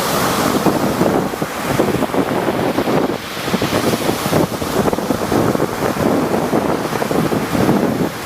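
Rough sea waves surging and breaking in a continuous wash, with wind buffeting the microphone.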